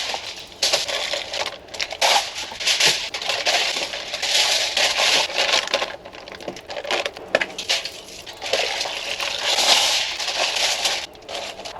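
Irregular bursts of crunching and crinkling, with sharp clicks, each lasting a second or two with short pauses between.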